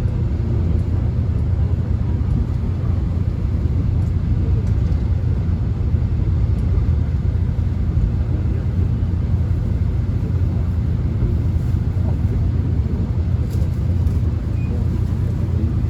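Steady low rumble of a Korean subway train running, heard from inside the car.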